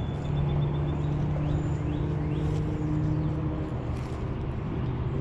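A steady, low engine hum, as of passing road traffic, over a constant rushing background; the hum fades about three and a half seconds in.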